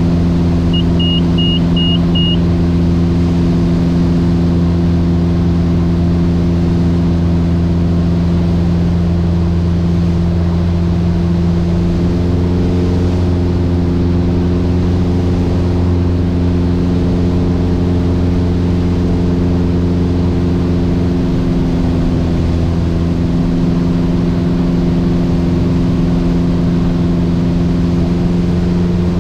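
Cockpit drone of a Mooney M20J's piston engine and propeller, running steadily, with parts of the drone shifting in pitch about nine and twelve seconds in. Near the start there is a quick series of five short, high electronic beeps.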